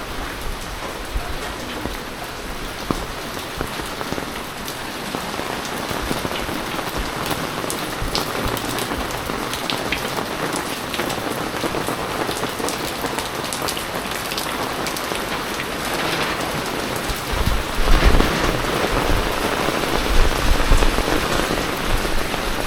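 Heavy typhoon rain falling steadily, with many close drops ticking on surfaces. The rain swells louder with a low rumble for a few seconds near the end.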